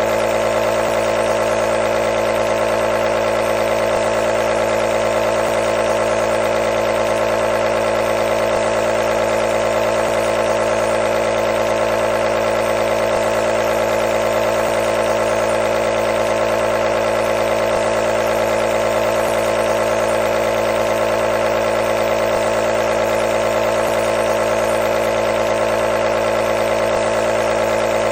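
Nebulizer's compressor running, a steady hum with many even overtones strongest in the middle range, over a light hiss of air.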